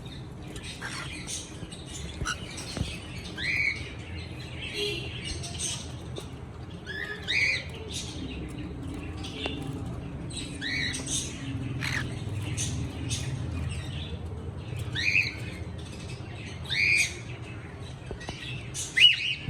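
Pet cockatiel chirping: about six short, arched whistled calls, a few seconds apart, over a steady low hum.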